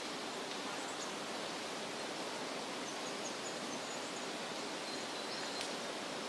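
Forest ambience: a steady, even rushing hiss with a few faint, short, high bird chirps in the second half.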